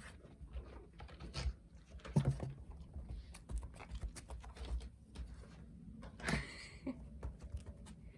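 Kittens and pets scampering and playing on the floor: a run of light, irregular paw taps and patters, with a thump about two seconds in and a brief higher-pitched sound about six seconds in.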